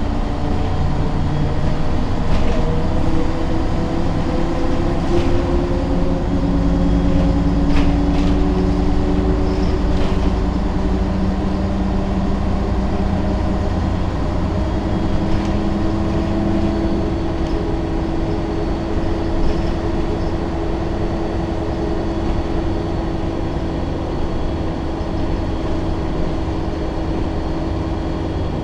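Ikarus 280 articulated city bus on the move, its diesel engine and drivetrain running with a steady low rumble. The whining tones rise slowly in pitch over the first ten seconds or so, then hold steady, and a few faint clicks or rattles sound early on.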